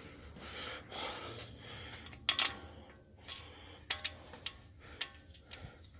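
Faint wiping and handling noises of oil-change work: a paper towel rubbing for the first couple of seconds, then about five sharp light clicks and taps.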